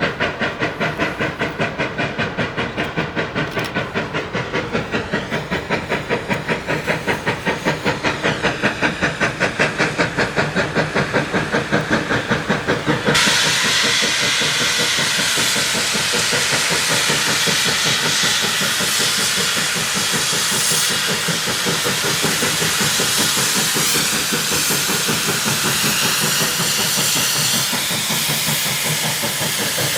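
Steam locomotive, a 2-8-0 Consolidation, working with a fast, even beat of exhaust chuffs. About thirteen seconds in the sound switches abruptly to a steady, loud hiss of escaping steam.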